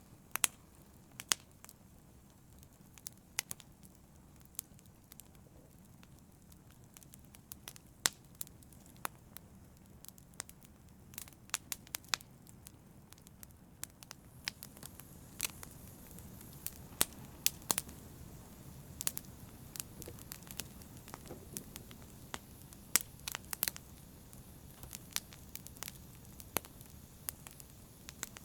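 Wood fire burning in a fireplace: irregular sharp crackles and pops over a low, steady rumble of flames, the pops coming more often in the second half.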